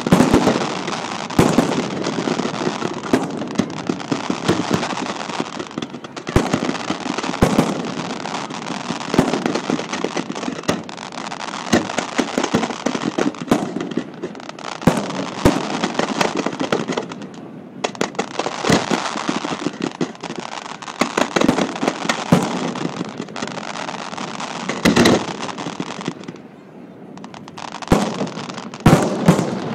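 Fireworks display with aerial shells bursting in quick succession: a near-continuous crackle with many sharp bangs standing out. It thins out briefly twice, about two-thirds of the way through and again near the end.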